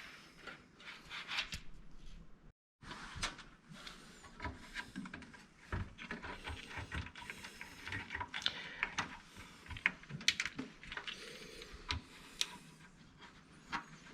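Small clicks, taps and rustles of a cable and connectors being handled and pushed into place inside a computer case, with a brief dropout about two and a half seconds in.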